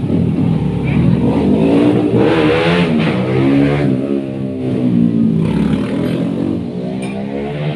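A motor vehicle's engine running, its pitch rising and falling as it revs.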